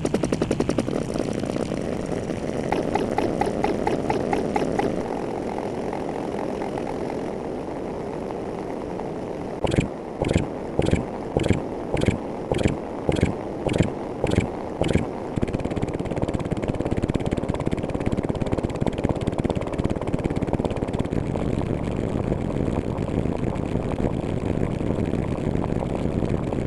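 Steady engine-like running noise, with a run of about ten evenly spaced sharp knocks, roughly two a second, around the middle.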